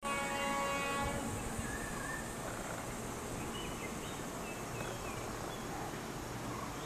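Outdoor ambience beside a railway line: a steady low rumble from a distant electric locomotive climbing the grade, with a few faint bird chirps. The sound starts abruptly with a pitched tone that cuts off after about a second.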